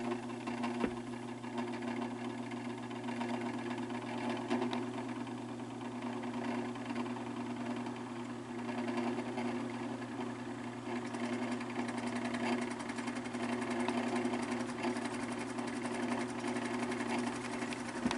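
Electric fan motor running with a steady hum and a continuous rattling, grinding noise from badly worn bearings.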